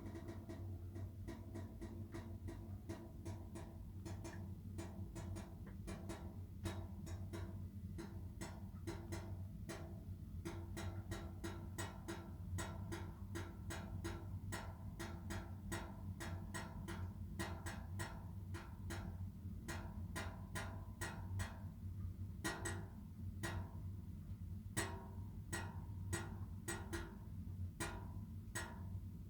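Wall furnace popping: a run of sharp, irregular pops, several a second and coming thicker from about ten seconds in, over a steady low hum.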